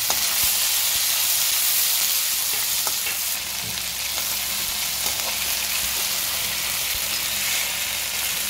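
Diced onion and green capsicum sizzling steadily as they are sautéed in a metal kadhai, stirred with a perforated steel spoon that gives a few light clicks against the pan.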